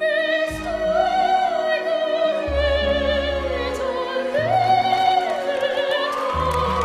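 A 10-year-old girl's soprano voice singing opera with vibrato over an orchestral backing track. The melody climbs to a high held note near the end, where audience cheering starts to rise.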